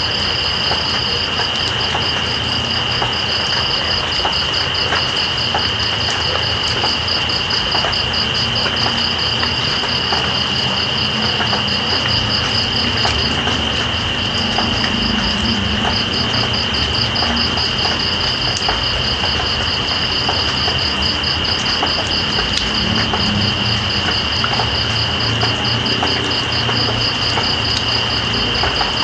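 Night insects calling: one holds a steady high trill while another pulses rapidly a little higher, pausing briefly about halfway through, over an even hiss of rain with faint ticks of drops. A low rumble runs underneath.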